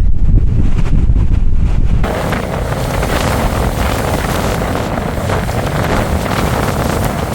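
Strong gusting wind buffeting the microphone as a heavy low rumble; about two seconds in it changes abruptly to a steady rushing hiss.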